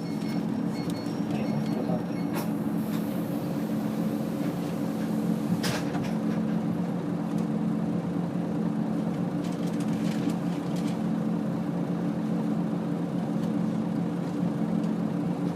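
Nissan Diesel UA city bus (KL-UA452KAN) diesel engine heard from inside the passenger cabin, a steady drone at constant pitch. A couple of short knocks or rattles come through, the first about two and a half seconds in and another around six seconds.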